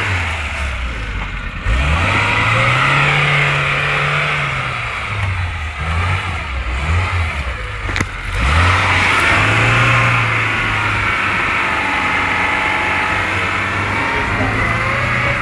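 VAZ 2107's engine revving up and down repeatedly as the car's wheels spin and churn through deep snow, with a hissing whine from the spinning tyres over it.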